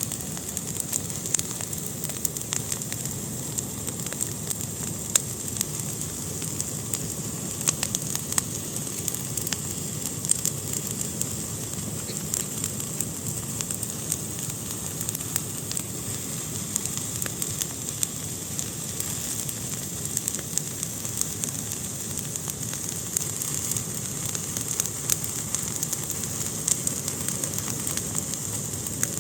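Fire burning in a fireplace: a steady hiss with frequent sharp crackles and pops.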